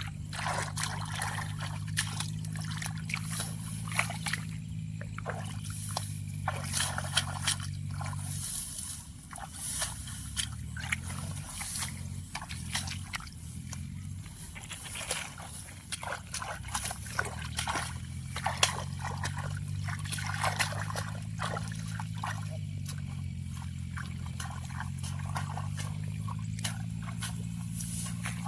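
Repeated short splashes and sloshing in shallow muddy water as catfish are caught by hand in a drained rice field, over a steady low engine hum.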